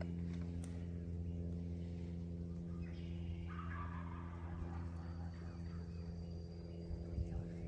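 Wild turkey gobbling once, a rattling call about three seconds in, over a steady low hum.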